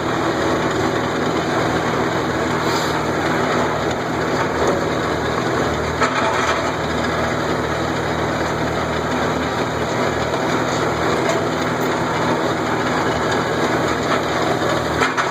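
Tractor engine running steadily under way, with a constant low drone and rattly mechanical noise.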